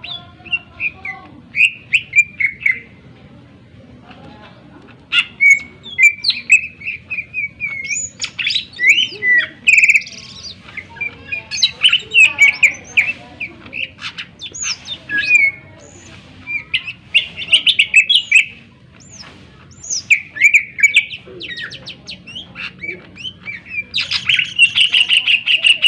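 Cucak ijo (greater green leafbird) singing a sharp, varied song of quick whistles and chattering phrases, in runs broken by short pauses, loudest near the end.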